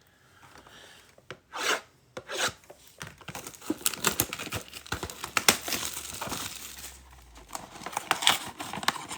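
Plastic and cardboard packaging of a box of trading cards being torn and crinkled by hand as the box is opened: scattered crackles, two short rasping tears, then steady crinkling and tearing.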